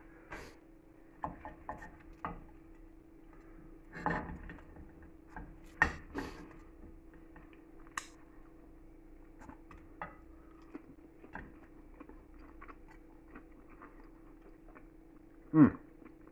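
A person chewing and biting food, with scattered small clicks and taps of a knife on a plate, over a faint steady hum. A brief louder sound falling in pitch comes near the end.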